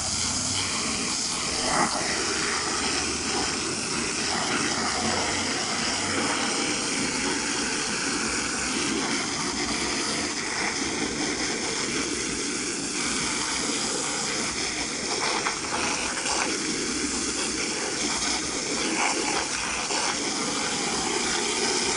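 Garden hose spraying water onto car carpet: a steady hiss.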